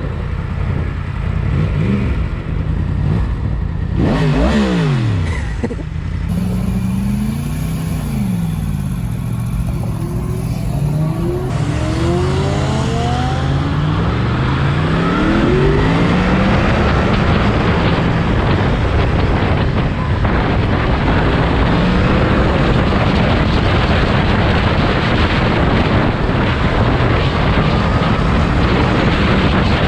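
Yamaha MT-10's crossplane inline-four engine revving and accelerating, its pitch rising and falling, then climbing in repeated rising sweeps as it pulls through the gears. Loud rushing wind noise builds from about twelve seconds in as speed rises.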